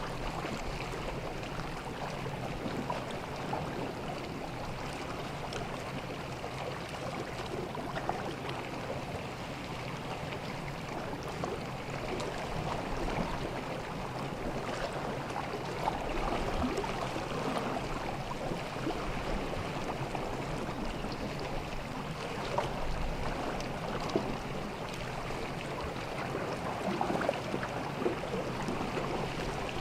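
Small sea waves lapping and washing at the shoreline. There is a steady wash with a continuous crackle of small splashes and gurgles, and a faint low rumble beneath.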